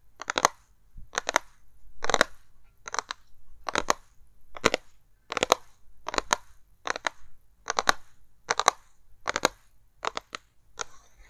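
Box packaging being handled for ASMR: short crackly strokes repeated evenly, about one every 0.8 seconds.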